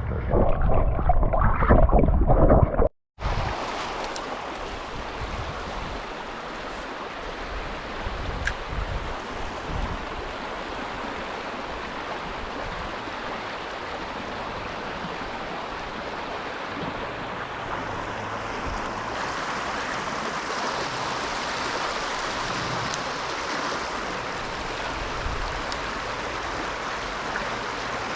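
A loud low rumble for the first three seconds. Then, after a sudden cut, the steady rush of creek water flowing, turning a little brighter past the middle.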